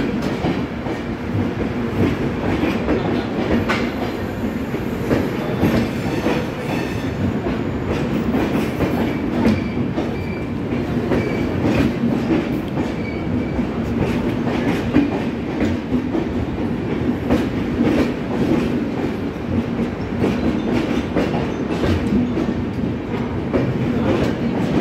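Passenger coaches rolling along a platform: a steady rumble of steel wheels on rail, with irregular clicks and clacks as the bogies pass over rail joints. A few brief thin squeals come in the middle.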